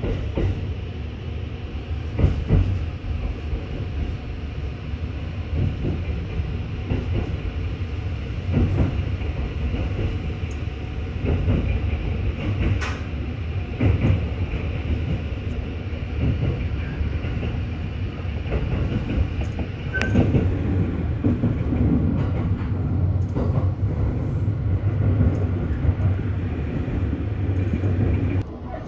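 Inside a Sunrise Izumo sleeper car (285 series electric train) on the move: a steady low running rumble with irregular sharp clicks of the wheels over rail joints.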